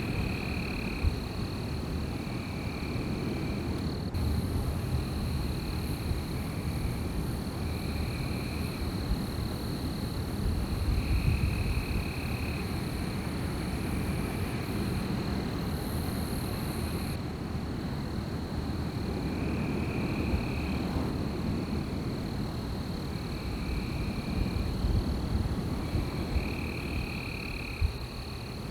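Night outdoor ambience: wind rumbling low and steady, a constant high-pitched tone, and calls about a second long repeating every couple of seconds. From about four seconds in until around seventeen, a higher hiss sits over it.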